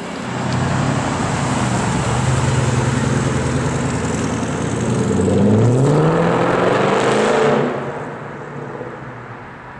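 Decatted Mercedes-Benz C63 AMG's 6.2-litre V8, with its catalytic converters removed, running at low revs, then accelerating hard about five seconds in with a rising pitch for a couple of seconds before fading away as the car drives off.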